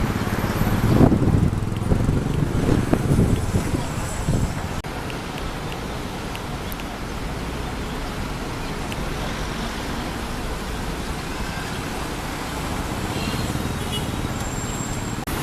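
Steady rumble of passing vehicles, louder and more uneven in the first few seconds, then an even noise.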